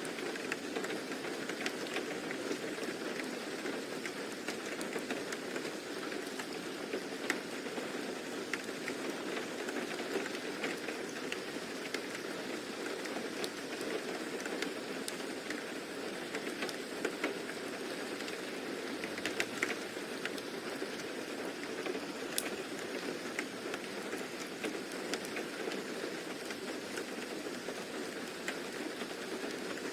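Steady rain ambience: even hiss of rain with scattered drop ticks.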